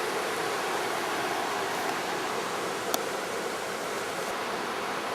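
Steady rushing of water from a mountain stream or river, with a single sharp click about three seconds in.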